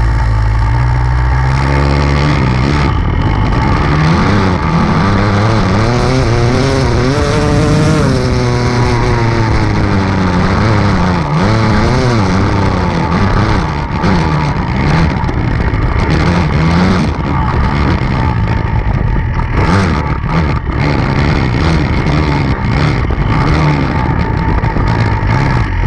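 Enduro dirt bike engine revving hard, its pitch climbing and dropping again and again as the throttle opens and closes.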